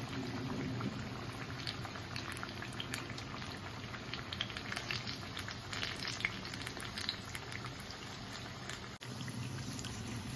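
Battered vegetable and paneer pakodas deep-frying in hot oil: a steady sizzle with constant fine crackling. The sound cuts out for an instant about nine seconds in.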